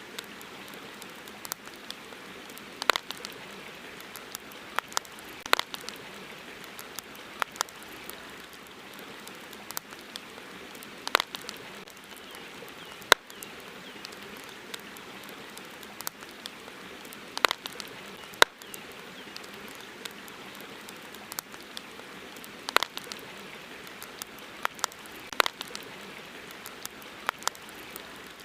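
Campfire crackling: irregular sharp pops and snaps, some much louder than others, over a steady hiss.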